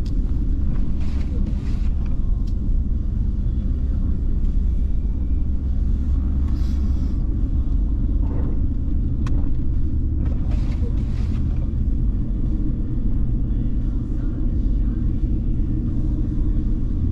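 Car driving through a blizzard: a steady low rumble of engine and tyres on the road, with a few brief hissing swishes and a single sharp click about nine seconds in.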